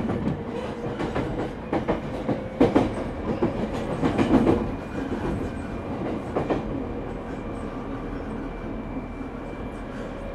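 Running sound heard inside the motor car of an unrenovated JR East 209-0 series electric train: wheels clacking and knocking over the rail joints several times in the first seven seconds, then smoother steady running.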